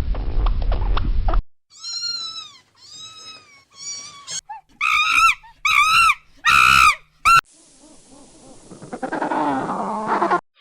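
A cat meowing about six times in a row, each meow rising then falling in pitch, the later meows louder. Before the meows there is a short rough, low sound, and after them a hissy, noisy stretch.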